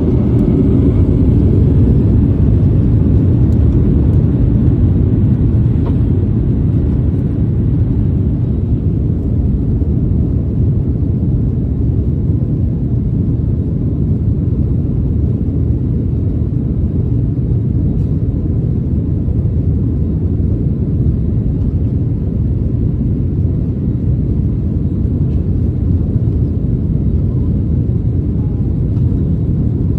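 Boeing 737 jet engines and airflow during takeoff: a loud, steady low rumble, a little louder in the first few seconds.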